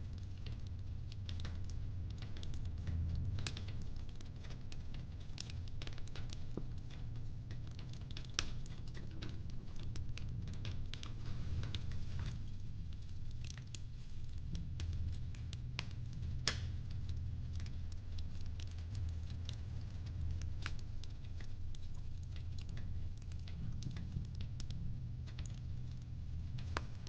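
Fireplace crackling: irregular sharp snaps and pops over a steady low rumble of the fire.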